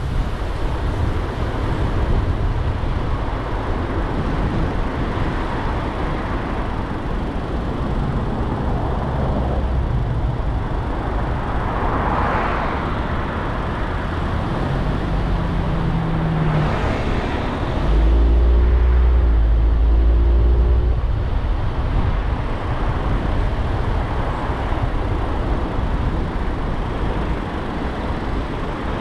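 Car driving through city traffic: steady road and engine noise. Other vehicles pass about 12 and 16 seconds in, and a louder low engine drone rises for about three seconds a little past the middle.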